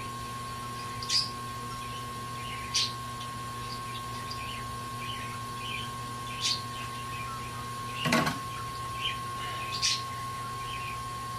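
Steady hum with a constant high whine from the heating tool used to soften the polarizer glue. Short high chirps and sharp ticks are scattered throughout, with one louder knock about eight seconds in.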